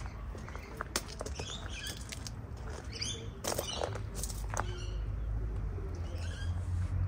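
Small birds chirping in short scattered calls, with a few sharp clicks and a steady low rumble underneath.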